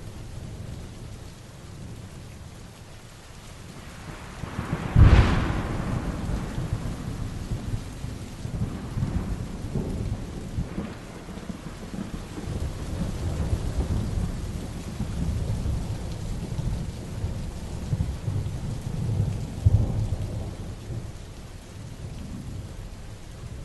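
Heavy rain falling steadily, with thunder: a sharp thunderclap about five seconds in, long low rumbling after it, and a second loud clap about twenty seconds in.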